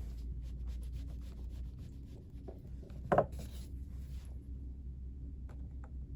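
Faint rubbing and small clicks over a steady low hum, with one brief louder sound about three seconds in.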